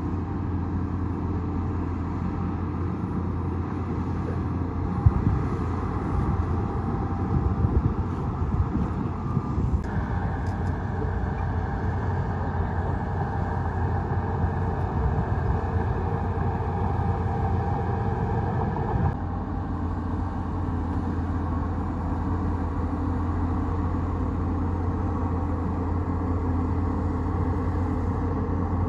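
A bulldozer's diesel engine running steadily, with some rattling in the first several seconds. Its note changes about a third of the way in and again about two-thirds of the way in.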